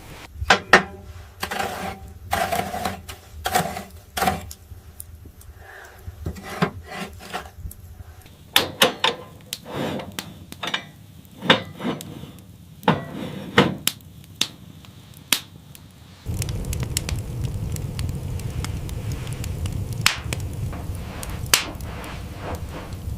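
Irregular sharp knocks and thuds, several a second at times, as of wood being struck or handled. About two-thirds of the way through they give way to a steady low rumble with occasional clicks.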